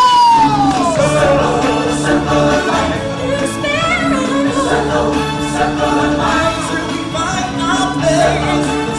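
Live stage-show music with a choir and solo voices singing over a steady band backing; one voice slides down in pitch right at the start.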